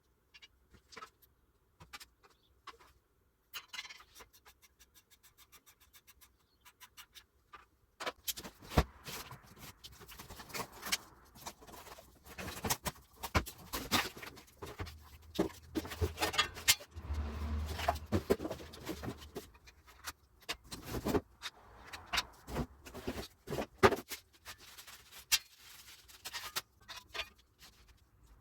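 Steel grinder-stand parts being handled and bolted together: irregular metal clinks and knocks, with a run of quick, evenly spaced clicks about four seconds in.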